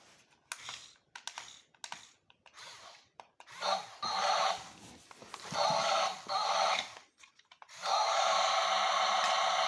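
Radio-controlled model excavators at work: first scattered clicks and small rattles, then several short whirring runs of their small electric motors, and from about eight seconds in a steady whir.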